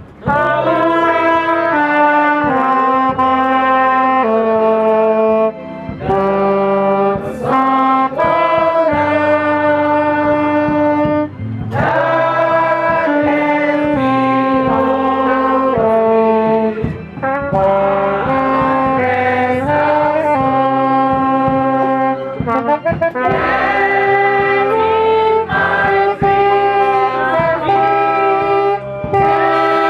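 Brass music: horns playing held chords that move from one to the next in steps, with a few short breaks between phrases.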